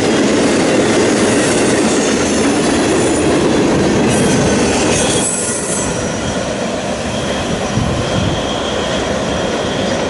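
Freight cars of a CSX intermodal train rolling past, a loud steady rumble of steel wheels on rail with a faint high wheel squeal at times. About five seconds in the sound drops a little as the end of the train moves away under the overpass.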